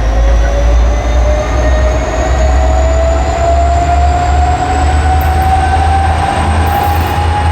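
Train running past with a heavy low rumble and a steady whine that rises slowly in pitch throughout.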